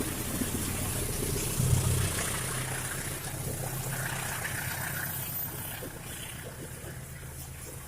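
A train's diesel engine running with a low, steady drone that slowly fades as the train moves away.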